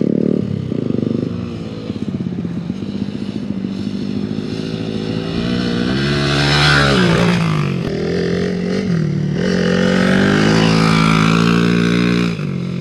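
Hero XPulse 200's single-cylinder engine through an MW Performance aftermarket exhaust, revving up and down as the bike is ridden on a dirt track. The engine pitch climbs about six seconds in and again around ten seconds in, with shorter lifts between.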